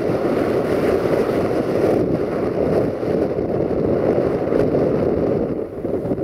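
Steady rumble of a freight train's wagons rolling past in the distance, mixed with wind buffeting the microphone.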